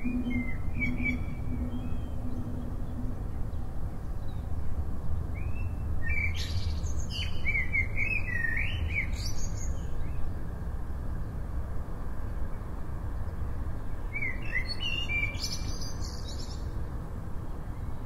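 Small birds chirping in two bouts of quick, gliding calls, the first about six seconds in and the second near the end, over a steady low rumble.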